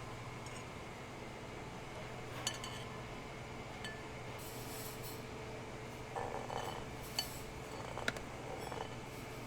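Kitchen utensils and bowls clinking lightly during food prep: a few sharp clinks and scrapes, the strongest about seven and eight seconds in, over a steady low hum.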